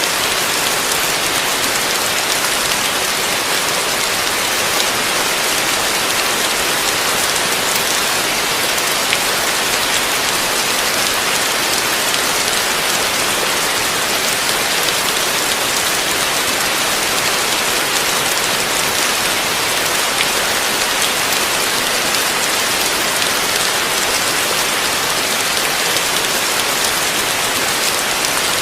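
Heavy rain falling steadily, a dense, even hiss of drops hitting a surface.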